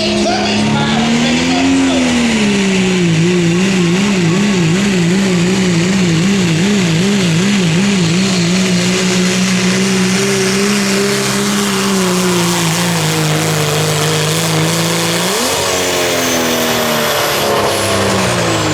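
Turbo-diesel pickup truck engine under full load, pulling a sled in the 2.6 class. It holds high revs, and for several seconds its pitch wavers rapidly up and down. Near the end the revs flare up sharply, then fall away.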